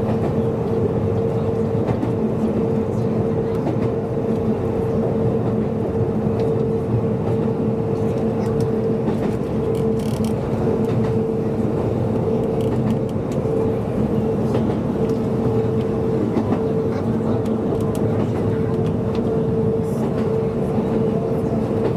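Kobe Electric Railway electric train running at a steady speed, heard from inside the front cab: wheels rolling on the rails with a steady two-pitched hum.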